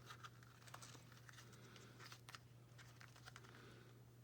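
Near silence with a few faint clicks and taps of small plastic toy accessories being handled and set in place, over a low steady hum.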